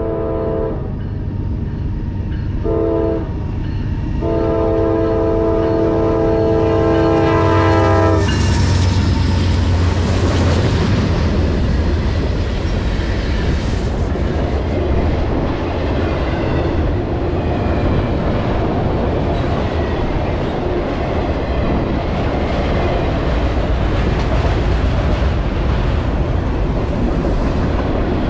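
Norfolk Southern diesel freight locomotive's air horn sounding the grade-crossing signal: the end of one blast, a short blast, then a long final blast that cuts off about eight seconds in as the locomotives pass with a loud low engine rumble. After that, the freight cars roll past with a steady clattering of wheels over the rail joints.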